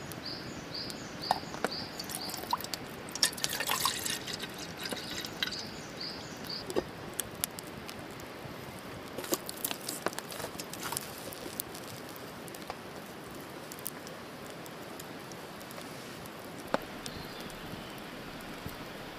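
Campfire crackling with scattered sharp pops, thickest a few seconds in and again around the middle. A bird repeats a short high note about twice a second over the first few seconds.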